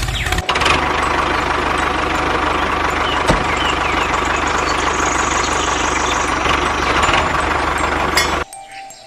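Small engine of a mini DIY tractor running steadily with a rapid, even putter. It starts about half a second in and cuts off abruptly near the end.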